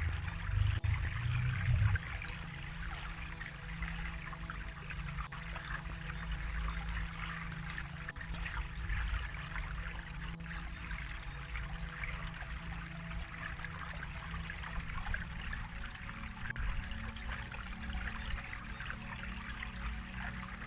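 Water trickling and splashing steadily, like a small stream, over a low steady hum that is loudest in the first couple of seconds.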